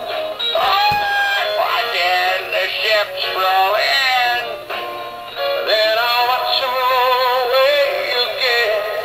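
Gemmy animated parrot toy singing a song in a high-pitched synthetic voice over backing music, played through its small built-in speaker.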